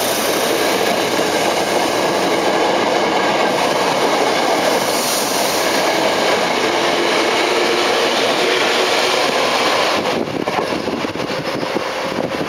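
Electric commuter train running along the rails through the station, a loud, steady rushing rumble. About ten seconds in it turns to an uneven, gusty noise.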